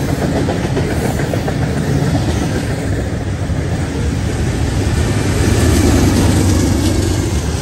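Freight cars rumbling and clattering across a steel truss bridge. About five seconds in, a diesel locomotive passes close by, and its engine hum becomes the loudest sound.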